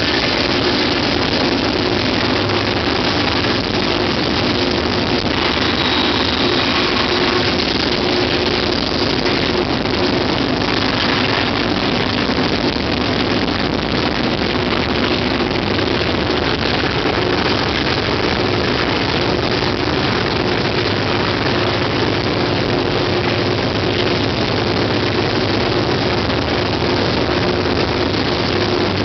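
White Pass narrow-gauge train in motion, heard from an open car platform: a steady rush of wheels on track and wind, with the diesel locomotive's engine droning evenly underneath.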